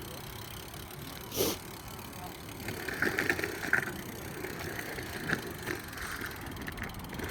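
BMX bike riding on skatepark ramps, with a sharp knock about a second and a half in and a spell of rattling clatter a little later, as the bike's parts and tyres hit the surface.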